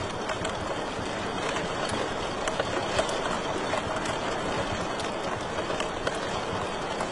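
Wood fire burning in a fireplace: a steady hiss and low rumble with scattered small crackles and pops, and one louder pop about three seconds in.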